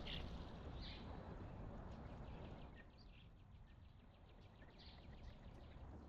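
Faint wild birds calling: a few short high chirps, then a quick trill of repeated notes lasting a couple of seconds, over a low steady outdoor rumble.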